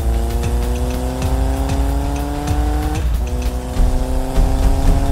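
Car engine accelerating hard, its pitch climbing steadily, then dropping at a gear change about three seconds in and climbing again, over a low rumble.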